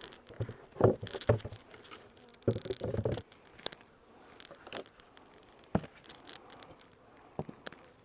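Handling noises from beehive equipment being worked: scattered knocks and clicks with some rustling. There is a sharp knock about a second in, a cluster of knocks near three seconds, and single clicks after that.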